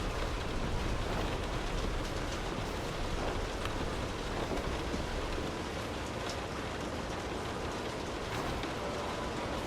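Steady, heavy rain hissing and pattering, with a low rumble of distant thunder in the first half that dies away around the middle.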